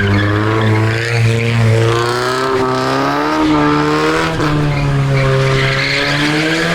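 Drift car's engine held at high revs with wavering pitch as it slides, tyres skidding and squealing, the squeal strongest near the end.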